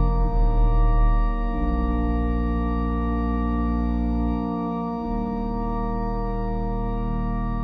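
Organ playing slow, sustained chords, with the bass notes changing about a second and a half in and again around five seconds.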